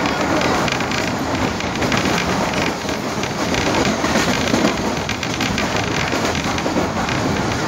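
Passenger train running at speed, heard from inside a coach: a steady rumble and rush of wheels on the rails.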